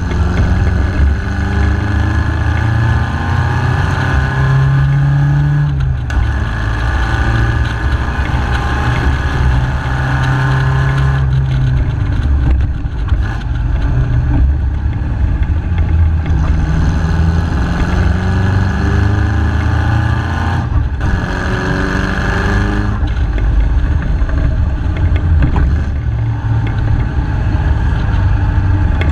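MG KY Special's engine running hard under way, heard from the open cockpit. The note climbs several times and breaks off briefly between climbs, as the car is driven through the gears.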